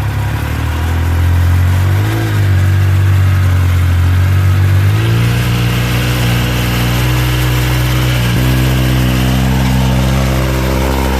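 Yamaha YXZ 1000R SS side-by-side's three-cylinder engine running at low revs under throttle changes, with a brief rise about two seconds in and the pitch stepping up around five seconds and shifting again just past eight.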